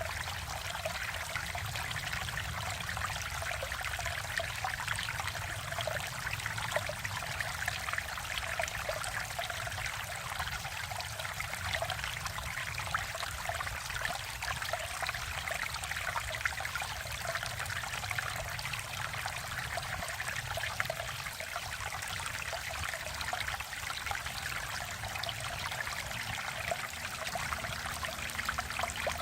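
Valley stream flowing and trickling steadily, an even, continuous sound of running water with no breaks or changes.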